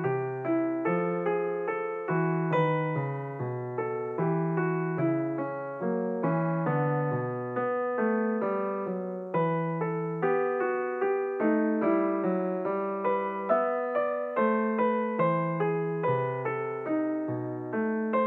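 Background music: solo piano playing a steady, even run of notes, each struck and fading, with no singing.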